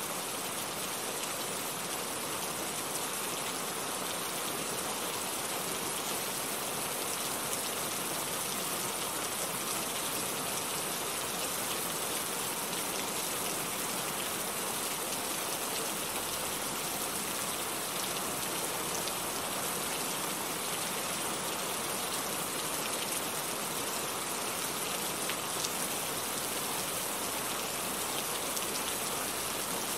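Heavy rain falling steadily, an even hiss with the patter of drops hitting a surface.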